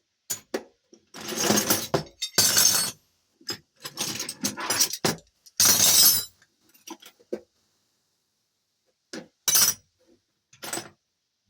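Metal hand tools and sockets clattering and clinking as they are rummaged through and set down, in a string of separate bursts, busiest in the first half.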